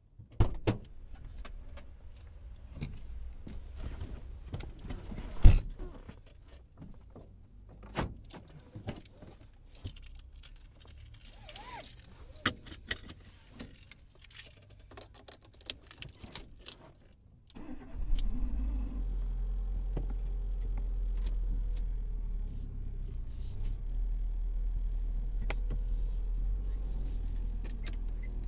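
Scattered clicks, knocks and rustles of someone settling into a parked car: seat belt, keys, with one sharp knock a few seconds in. A little after halfway the car's engine cranks, catches and settles into a steady low idle, heard from inside the closed cabin.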